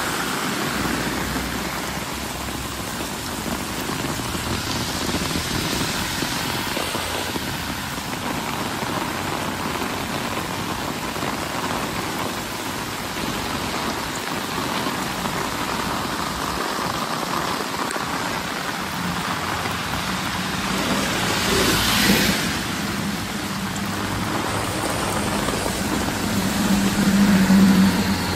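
Heavy rain pouring onto a street and pavement, a steady hiss of rain and running water. About three-quarters of the way through, a vehicle swishes past on the wet road. Towards the end, a low steady engine hum from a coach bus grows louder.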